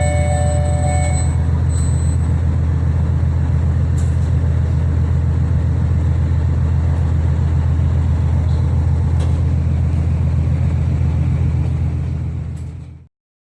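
Ferry's engines running with a steady low drone and a noisy rumble, a few thin high tones heard in the first second. It fades out near the end.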